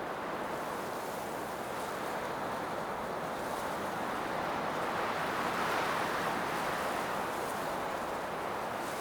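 Blizzard wind blowing as a steady rush, swelling about halfway through and easing again.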